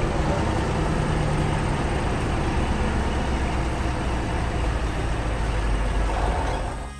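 Heavy vehicle engine running with a steady low rumble and a broad noisy roar, cutting off near the end.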